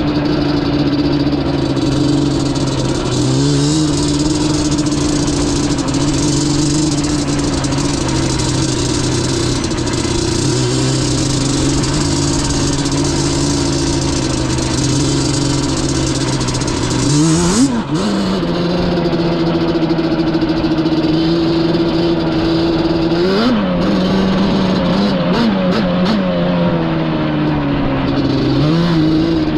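Yamaha Banshee's twin-cylinder two-stroke engine running at a mostly steady pitch as the ATV is ridden. A quick rev up and back down comes a little past halfway, and smaller throttle blips follow near the end.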